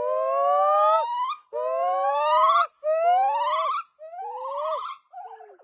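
A primate calling: about five loud whooping notes in a row, each rising in pitch, the later ones shorter, fainter and wavering, trailing off near the end.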